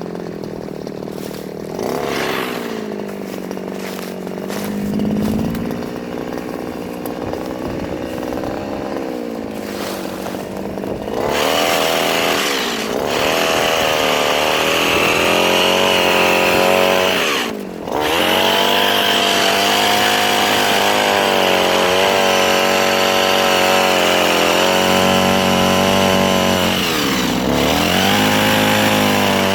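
Mini chainsaw running, quieter at first with two short speed-ups. About a third of the way in it runs hard and loud for the rest, its pitch sagging and recovering as under load when cutting soft wood, with one brief drop in speed.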